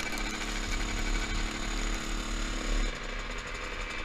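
Two-stroke dirt bike engine running at steady high revs, then easing off about three seconds in.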